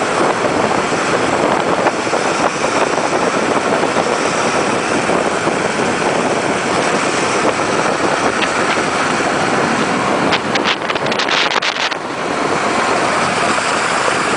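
Steady, loud rushing of wind over the microphone during an ice boat run, with a quick run of sharp clicks or crackles about ten seconds in.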